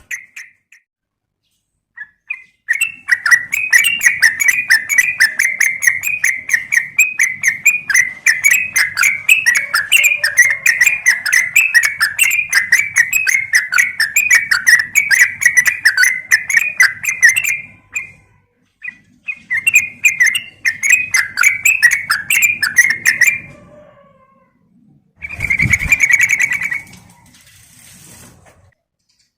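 Yellow-vented bulbul (trucukan) calling in fast chattering runs of rapid repeated notes, broken by two short pauses, with shorter bursts near the end.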